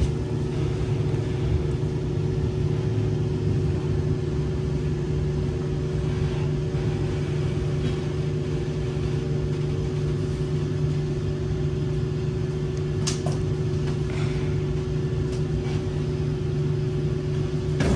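Kawasaki C151 metro train heard from inside the car, running at a steady speed between stations: an even rumble of wheels on track with a constant motor hum, and one sharp click about 13 seconds in.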